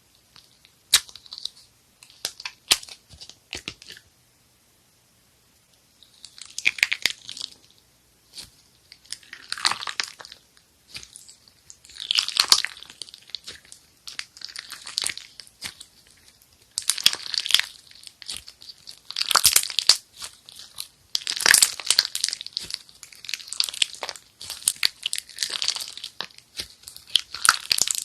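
Slime being pressed and stretched by hand, giving sticky crackling and popping. A few sharp clicks come near the start, then after a short pause the crackling returns in repeated bursts about every two seconds.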